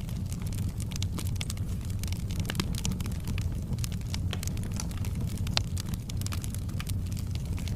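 Wood fire burning in a fireplace: a steady low rumble of the flames with frequent sharp crackles and pops, one louder pop about five and a half seconds in.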